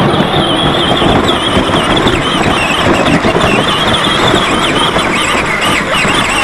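Ride-on toy tractor driving along a rough trail: a steady rumble of its wheels over the ground with a wavering high squeal.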